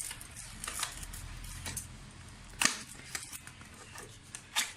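Packaging being handled while a speaker box is unpacked: light rustling and scattered clicks, with one sharp click a little past halfway.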